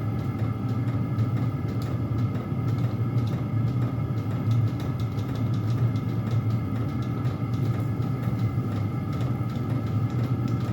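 Several Chinese diesel air heaters running together: a steady low hum with the even whine of their fans, and faint scattered clicks.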